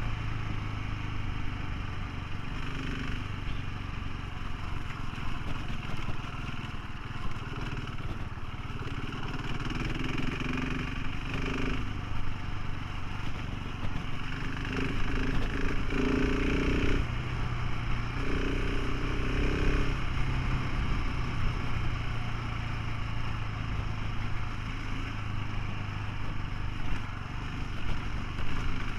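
Motorcycle engine running while riding, with a continuous rushing noise over it; the engine note shifts in pitch a few times.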